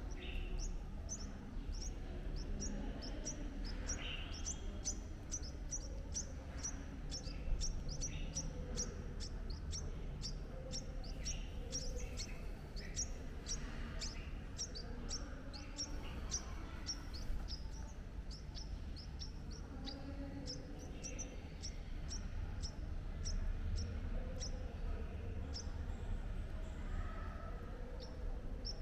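A bird chirping over and over: short, high, downward-sliding chirps, about two or three a second, over a low background rumble.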